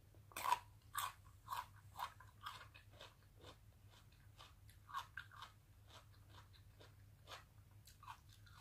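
Close-up crunching of a person chewing a raw whole radish with the mouth closed. The crunches come about twice a second at first, then thin out to a few scattered ones.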